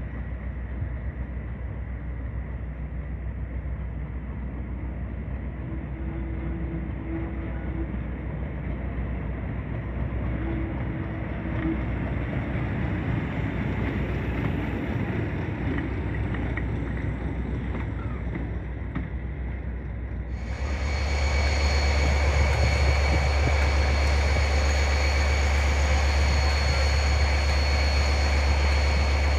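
Heritage diesel locomotive engine running with a steady low drone. About twenty seconds in, the sound jumps louder, with a heavy low drone and a steady high whine over it.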